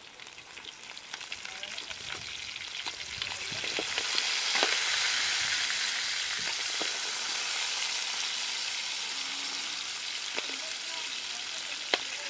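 Crab pieces and minced garlic sizzling in a steel wok, the hiss building over the first few seconds as more crab is dropped in and then holding steady, with a few sharp clicks as pieces land on the metal.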